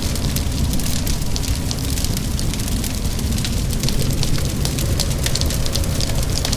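Wood fire crackling with many small irregular pops, over steady rain and a low, even rumble.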